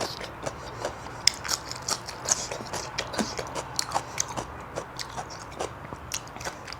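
A person chewing food close to the microphone during a mukbang, with irregular wet mouth clicks and smacks.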